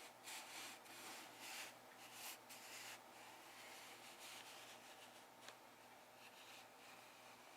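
Faint, soft rubbing strokes close to the microphone, several in the first three seconds, then a single small click about five and a half seconds in.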